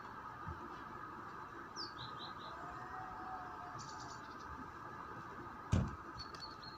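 Small birds chirping: a short falling note and three quick chirps about two seconds in, a buzzy chatter around four seconds, and more chirps near the end, over a steady city hum. A single sharp thump just before six seconds.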